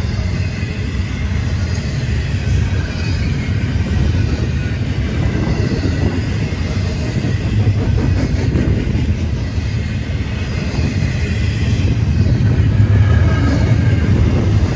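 Freight train rolling past with a steady low rumble of railcars on the rails, growing a little louder near the end.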